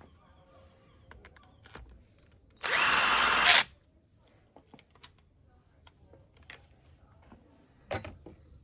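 A handheld power tool, such as a cordless drill or driver, runs in one steady burst of about a second, then stops. Small clicks of handling, and a clunk near the end.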